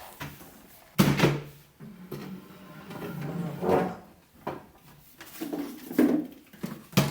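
Sharp knocks and bumps of hard objects, the loudest about a second in and another near the end, with a small child's short vocal sounds in between.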